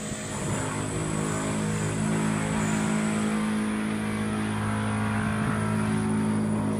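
A train runs with a steady, loud low drone of several held tones, which drops away abruptly near the end.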